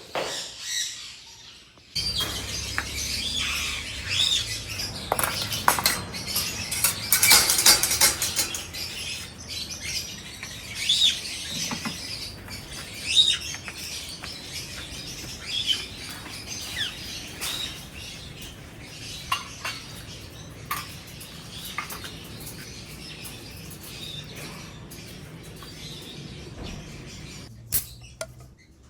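Pet parrots chirping and calling in short, repeated high chirps, busiest about seven seconds in, then scattered calls.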